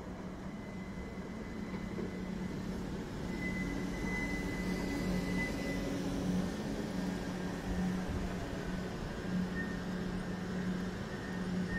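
GWR Class 387 Electrostar electric multiple unit running past along the platform, a steady hum with rail and wheel noise that grows a little louder. A faint high whine comes in a few seconds in and fades again.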